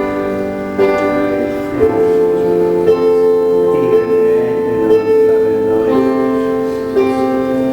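Slow worship music of held keyboard chords, moving to a new chord every second or so.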